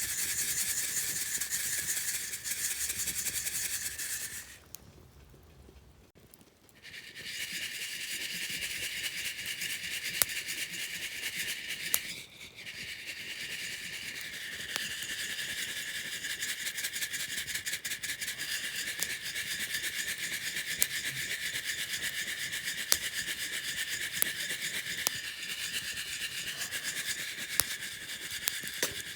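Coffee beans being shaken in a hand-held mesh roaster over a campfire, a continuous dry rattling rustle of beans tumbling against the wire mesh. The shaking stops for about two seconds around five seconds in and pauses briefly again near twelve seconds. A few sharp single pops stand out over it.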